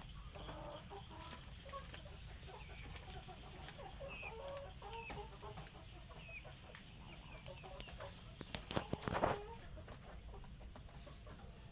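Chickens clucking on and off, with small high chirps in the middle and a brief, louder burst of sound about nine seconds in.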